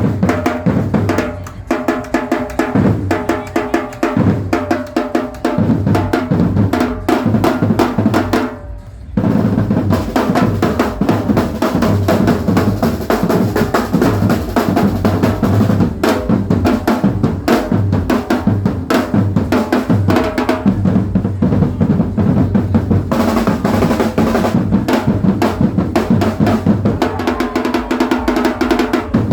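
Live drumming: drum kit and percussion playing a dense, fast beat over backing music with held tones. It drops out briefly about eight and a half seconds in, then comes back in full.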